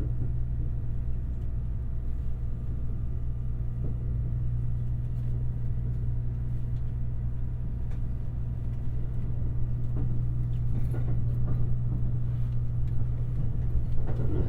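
Running noise of the Shirasagi limited express electric train heard from inside the carriage: a steady low rumble of wheels and motors on the track, with a few faint clicks and knocks, growing somewhat louder in the last few seconds.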